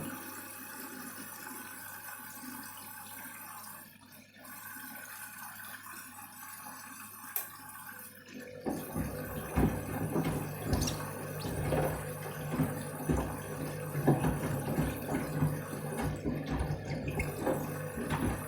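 Candy washing machine on its rinse cycle: a steady rush of water for the first part, then from about eight seconds in a low rumble of the drum turning, with water sloshing and the shoes inside thumping against the drum now and then.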